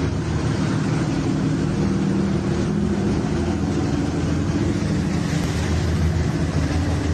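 A boat's engine running steadily with a low drone, under a loud rushing noise.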